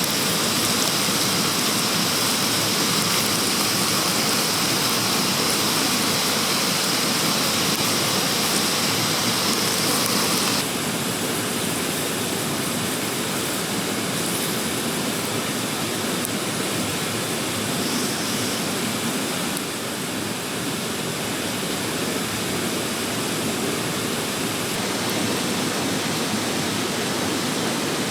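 Steady rushing of a mountain stream's flowing water. The level drops slightly about ten seconds in and again near twenty seconds.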